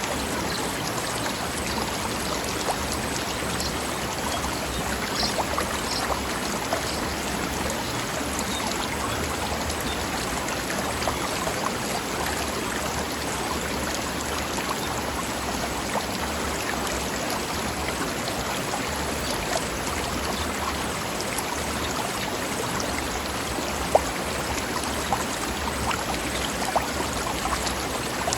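Forest stream running over rocks: a steady rush with many small splashes and gurgles, and one sharper splash about 24 seconds in.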